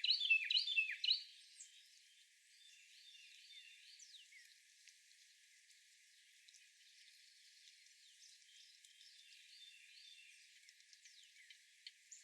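Wild songbirds chirping: a quick run of loud, falling chirps in the first second or so, then faint scattered calls of more distant birds.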